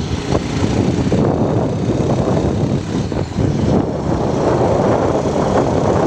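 Motorbike riding along at speed, its engine and road noise under a heavy rumble of wind buffeting the microphone.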